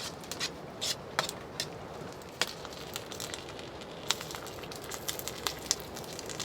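Hot tent wood stove crackling, with a pan of ground beef in sloppy joe sauce sizzling on it as it heats: a steady hiss broken by irregular pops.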